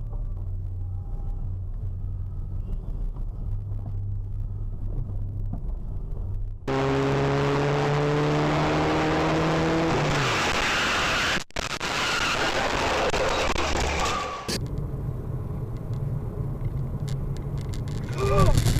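Car engine and road noise heard from inside moving vehicles, changing abruptly several times as clips cut. A low steady hum gives way to a louder stretch with a steady pitched drone that slowly rises and then drops away.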